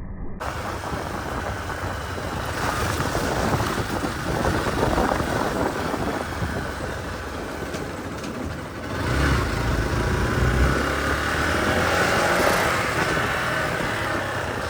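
Motorcycle engine running while riding a rough road, with wind buffeting the microphone; it gets louder about nine seconds in.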